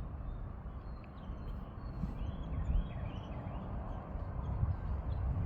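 Small birds chirping faintly a few times over a steady low rumble.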